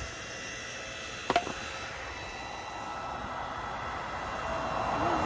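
Log splitter running with a steady hum. A sharp double knock comes about a second in, and a rush of noise swells near the end.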